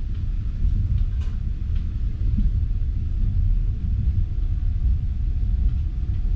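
Steady low rumble of a moving passenger train heard from inside the carriage, with a faint steady hum above it and a couple of light ticks about a second in.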